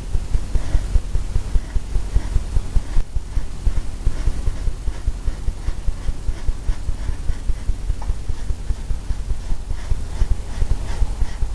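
Oil painting brush dabbing against a stretched canvas, making steady low thuds about three times a second.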